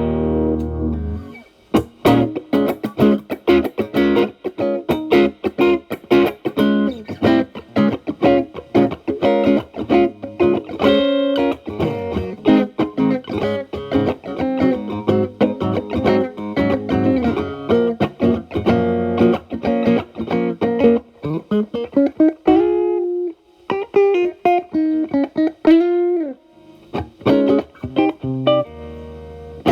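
Electric guitar (Telecaster) played through an E.W.S. Brute Drive distortion pedal into a Marshall Valvestate amp's clean channel, with the guitar's volume rolled back to clean up the drive. A held chord fades about a second in, then come quick blues-style single-note licks, with string bends near the end.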